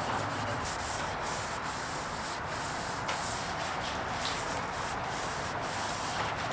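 Steady abrasive sanding on the restored axe, a continuous rubbing hiss with faint irregular scratches.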